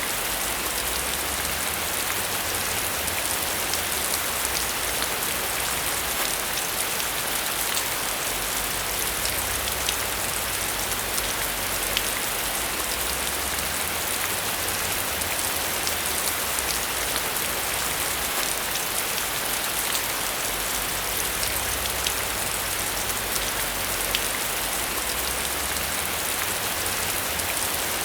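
Steady rain falling on a surface, a dense even hiss with many small drop ticks throughout.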